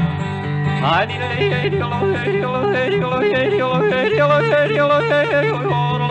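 A male country yodeler yodels. After a held note and a quick upward slide about a second in, his voice flips rapidly back and forth between low chest notes and high falsetto notes, over steady instrumental accompaniment.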